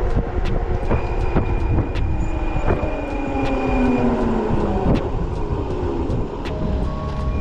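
Riding sound of a fat-tyre electric bike at speed: heavy wind buffeting on the microphone and road rumble, with scattered clicks and knocks. In the middle, a group of tones slowly falls in pitch.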